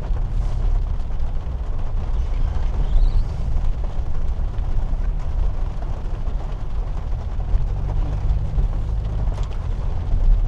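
Steady low rumble of a car driving, heard from inside the cabin: engine and tyre noise with a light hiss above it.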